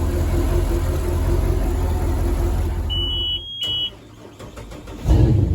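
Heyday WT-1's engine running steadily, then switched off about three seconds in with a short electronic beep and a click. After a moment of quiet with a few light clicks it is started again near the end and runs on.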